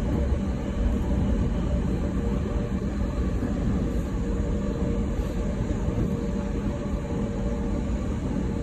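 Steady running noise inside a moving commuter train: a low rumble of wheels on rails, with a faint steady hum throughout.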